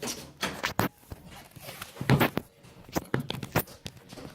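Footsteps with a few knocks and bumps, irregularly spaced.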